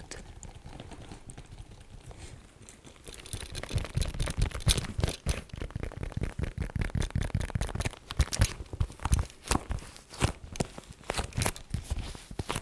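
Fast ASMR tapping and scratching on an object. It is soft for the first few seconds, then becomes a dense run of quick taps and scrapes from about three seconds in.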